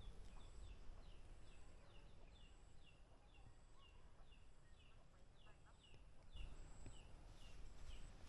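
Faint, rapid series of short, falling chirps from a small bird, two or three a second, over a thin high steady insect note that starts and stops.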